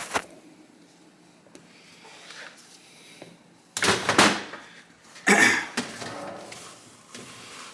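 Two short bursts of clattering and scraping, about four and five and a half seconds in, as hard objects are handled and set down.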